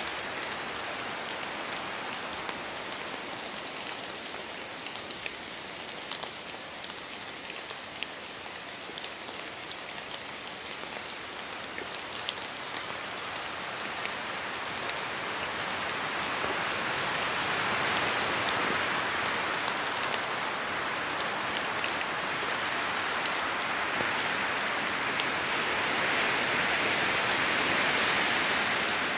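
Steady rain falling in a forest, with many small, distinct drop ticks over a constant hiss. Wind through the trees swells the hiss louder about halfway through and again near the end.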